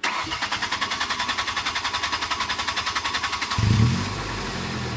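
Ford Ranger 2.3-litre four-cylinder engine being cranked by the starter motor in a fast, even rhythm for about three and a half seconds, then catching with a brief rev and settling into a steady idle. It is slow to start.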